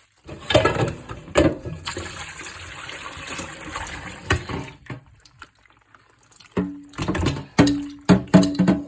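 Brine pouring and splashing out as raw chicken pieces are tipped from their container and drained, with a few wet knocks as the pieces drop. It stops about halfway through, and a run of sharper knocks and clatter follows near the end.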